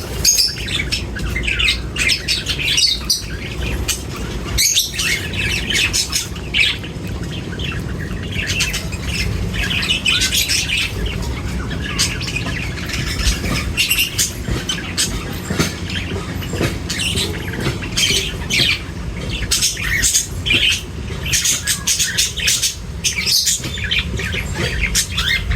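A flock of birds chirping and squawking in quick, overlapping calls, over a steady low rumble.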